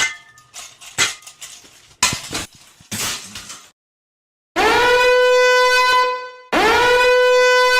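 A few sharp knocks and clinks, then two long, steady horn blasts of about two seconds each, one right after the other.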